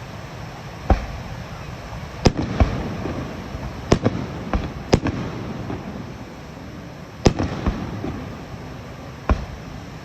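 Aerial fireworks bursting: about nine sharp bangs at irregular intervals, some in quick pairs, over a continuous noisy background.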